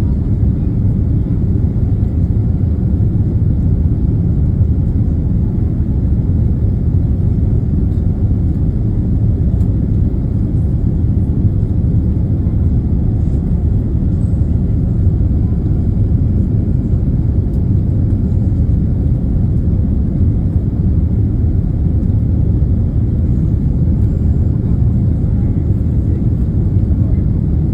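Jet airliner engines and airflow heard from inside the passenger cabin: a steady low rumble that does not change.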